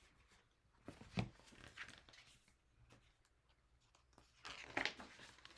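A picture book's page being turned: faint paper rustles and a few light knocks, the longest rustle about four and a half seconds in.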